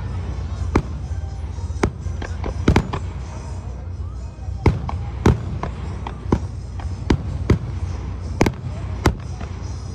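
Aerial fireworks bursting in a display: about a dozen sharp bangs at irregular intervals, one or two a second, over a steady low rumble.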